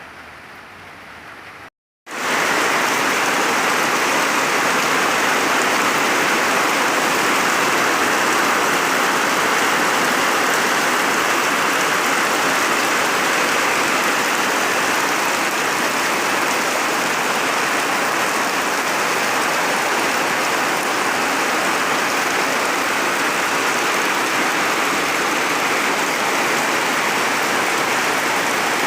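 Steady rain falling in a sunshower, an even, loud hiss. It starts quieter, cuts out briefly about two seconds in, then comes back much louder and stays steady.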